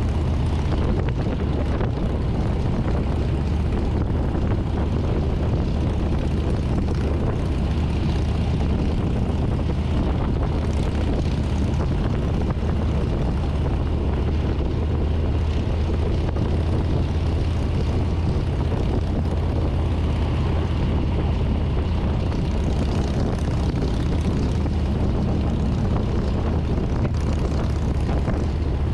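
Harley-Davidson Street Bob's Milwaukee-Eight V-twin engine running steadily at cruising speed, a constant low drone mixed with rushing wind noise.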